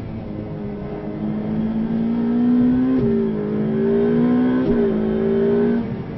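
Ferrari 488 Pista's twin-turbo V8 accelerating, heard from inside the cabin: the engine note rises in pitch, drops sharply at two quick upshifts about three and about four and a half seconds in, and falls away near the end.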